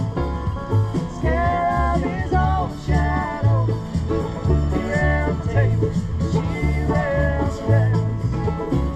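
Acoustic bluegrass band playing live: a bass line alternating between two notes on a steady beat, plucked strings, and a bending lead melody above them.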